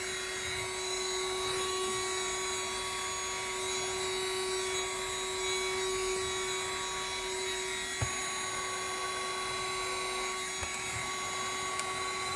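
Handheld car vacuum running steadily, its motor giving a constant whine over the rush of suction, with one brief knock about eight seconds in.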